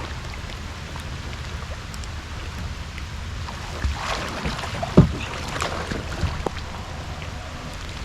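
Kayak and paddle splashing in the water over a steady low rumble, with a sharp knock about five seconds in.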